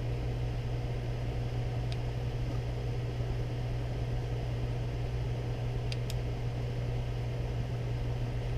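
Steady low hum with a hiss of background noise, and a few faint light clicks about two seconds in and again about six seconds in.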